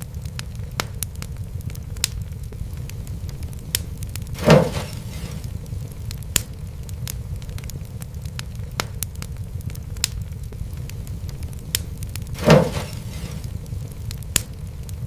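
Wood fire in a fireplace crackling, with scattered sharp pops over a steady low rumble of flames. Two louder bursts, each about half a second long, come about eight seconds apart.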